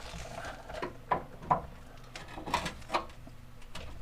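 Light metal knocks and clicks, about five spread over a few seconds, as a new lower control arm mount is worked into its seat.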